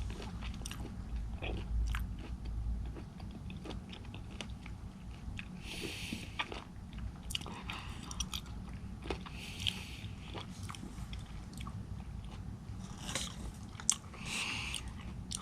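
Chewing and biting a mouthful of raw fish (hoe), with wet smacks, small crunches and scattered clicks, and a few short airy breaths.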